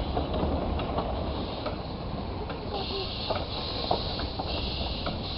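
Narrow-gauge steam train running: a steady low rumble with scattered rattles and clicks from the wheels and carriages. A patchy high hiss joins in about three seconds in.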